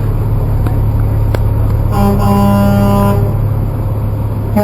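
A big truck's horn sounds for about a second, a steady chord of two tones over the low, steady rumble of a truck engine. A second horn blast begins right at the end.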